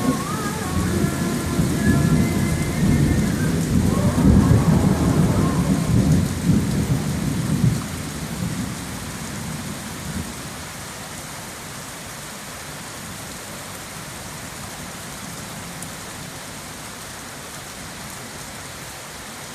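Thunder rumbling deep and loud over heavy rain, dying away about eight seconds in, followed by steady rain.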